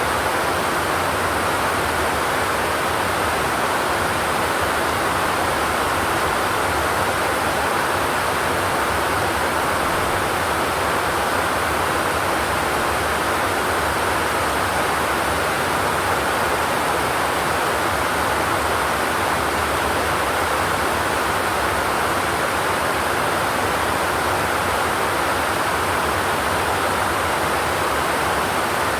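Steady rain falling on a zinc sheet-metal roof, a continuous even hiss with no thunder.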